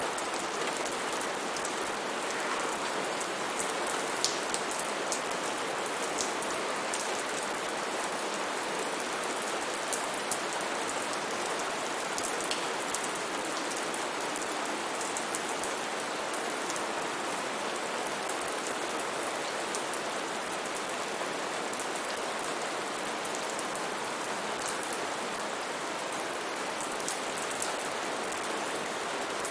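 Steady rainforest rain: an even hiss of rainfall with frequent sharp taps of single drops landing close by.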